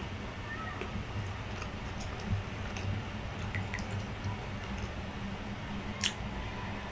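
Close-up mukbang eating sounds: a person chewing grilled isaw, with wet, squishy mouth sounds and small clicks, and one sharper click about six seconds in, over a steady low hum.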